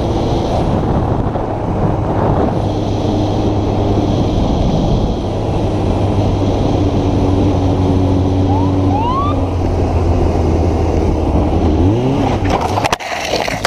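Motorcycle engine running at a steady speed under heavy wind rush. A little before the halfway point come two brief rising whoops of a police siren being blipped. Near the end the engine note falls away amid a few knocks and scrapes as the bike goes down.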